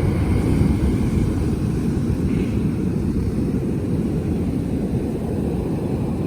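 Wind buffeting the microphone in a steady low rumble, with ocean surf behind it.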